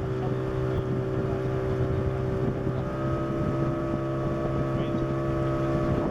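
Motorboat engine running at a steady, even pitch, with a rush of wind and water underneath.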